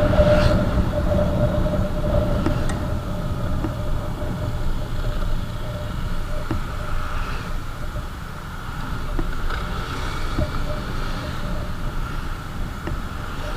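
Motorcycle running at road speed: a steady low rumble of engine and road noise, with a faint whine that fades over the first few seconds.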